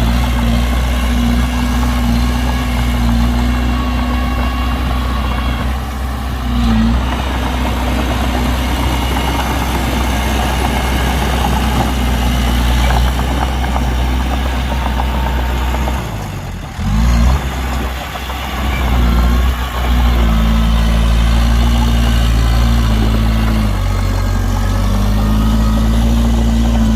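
Heavy diesel engine running steadily at a low, even speed. About sixteen seconds in, its note briefly drops and shifts in pitch before settling back.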